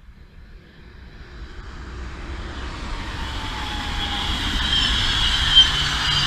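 An NS ICM 'Koploper' electric intercity train approaching and passing at speed: the rush and rumble of its wheels on the rails grows steadily louder, with a faint high whine and a slightly falling tone as it comes by.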